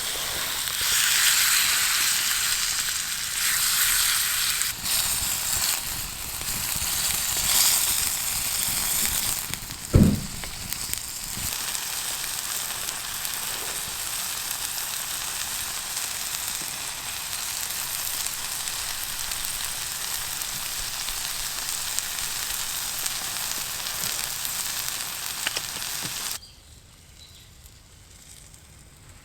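Food sizzling and frying in a pan, loud and uneven at first, then a steadier, lighter sizzle. A single sharp knock about a third of the way through, then the sizzle cuts off suddenly near the end, leaving quiet outdoor background.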